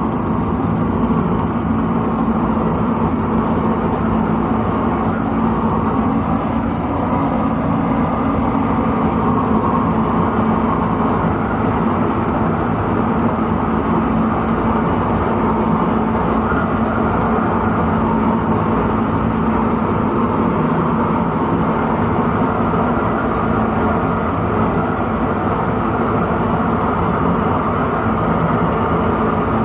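Toyota Land Cruiser hardtop engine running steadily under way, a continuous drone with no change in pace.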